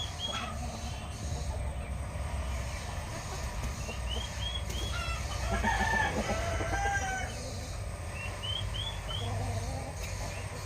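Aseel rooster crowing once, about six seconds in, a crow of about a second and a half. Short high chirps come in groups of three or four near the start, middle and end, over a steady low rumble.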